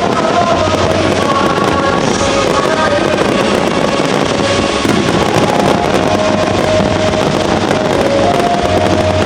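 Fireworks crackling and bursting continuously over music with a held melody.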